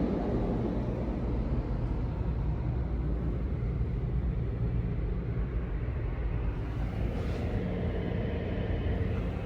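Car running, a steady low rumble with a light hiss above it.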